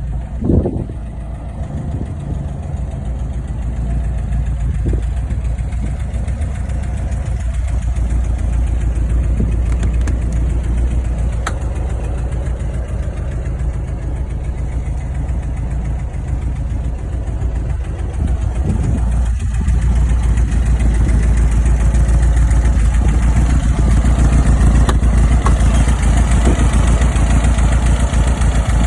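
The 2109 cc air-cooled flat-four engine of a 1968 VW Beetle running at idle. It gets louder about twenty seconds in and holds there.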